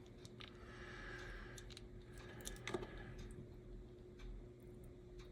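Faint, scattered light clicks and ticks of a tiny brush spring and small hand tools being worked into an HO scale slot car's motor, with one sharper click almost three seconds in.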